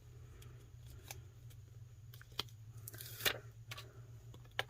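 Scissors snipping paper in a few scattered cuts, the longest and loudest about three seconds in, trimming away an unwanted edge. A low steady hum runs underneath.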